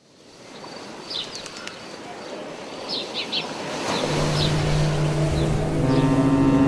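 Birds chirping in short quick calls over a steady outdoor hiss that fades in from silence; about four seconds in, an ambient music pad of held tones swells in and grows louder.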